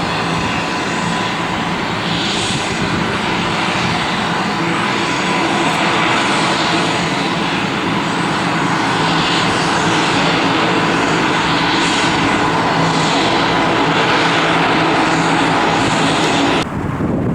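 Cargo aircraft's engines running loud and steady, with a whine and deep hum, then cutting off abruptly near the end.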